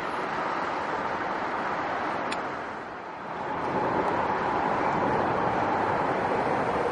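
Commuter train running past, a steady noise that dips about three seconds in and then swells louder again.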